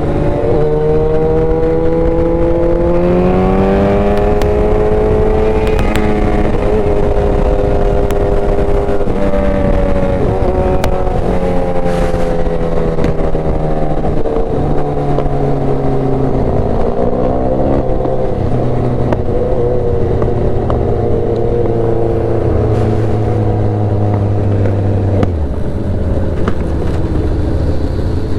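Motorcycle engine running at speed, its pitch climbing with the throttle and stepping up and down through gear changes, over a steady rush of noise. Near the end the revs drop sharply.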